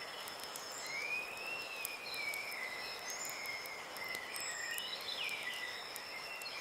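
Outdoor nature ambience: a steady high insect drone with a long, wavering whistle-like tone weaving beneath it and scattered faint clicks.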